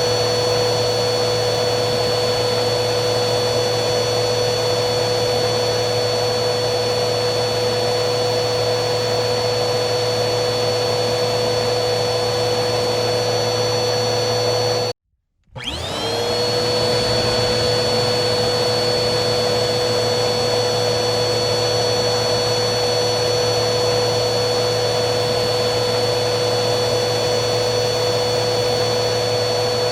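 Vacuum cleaner motor running with a steady whine and rush of air. About halfway through it cuts out abruptly for about half a second, then starts again, its whine rising quickly back up to full pitch.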